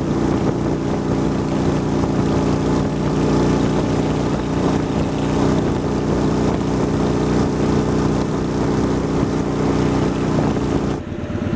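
Honda Shadow Spirit 750 V-twin with Cobra aftermarket pipes running at a steady cruise while riding. The engine note holds even, over a constant rush of wind and road noise, and cuts off abruptly near the end.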